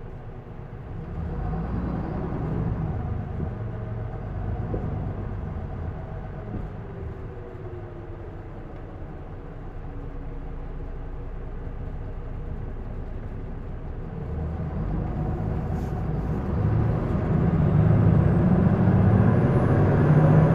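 Isuzu Erga city bus's six-cylinder diesel engine heard from inside the cabin, pulling under throttle about a second in, then easing off with its pitch falling through the middle. It revs up again in the last quarter and is loudest near the end, with a faint high whine on top.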